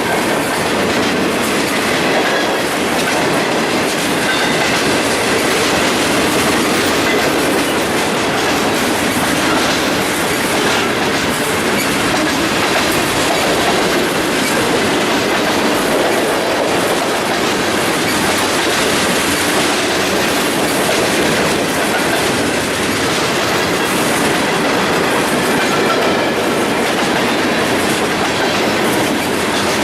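Freight cars of a long mixed freight train rolling past at a steady pace: a loud, unbroken rattle and rumble of steel wheels on the rails, with clickety-clack from the wheels.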